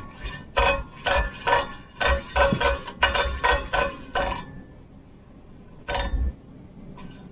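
Giant Momentum Latte bicycle making a run of sharp metallic clicks with a short ring to each, about two to three a second. They stop after about four seconds, and one more click comes near the end.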